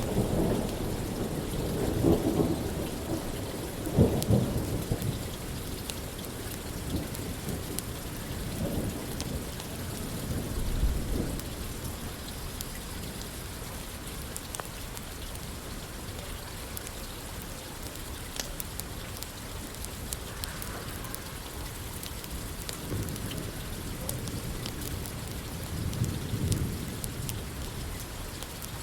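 Steady rain falling, with rolling thunder rumbling in the first few seconds, again around ten seconds in, and once more near the end.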